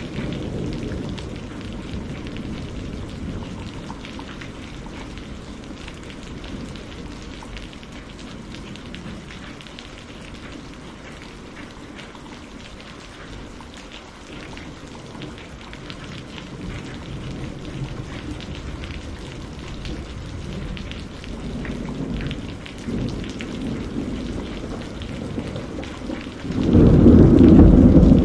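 Steady rain with rolling thunder. A low rumble dies away over the first few seconds and builds again past the middle. A loud clap of thunder breaks out near the end.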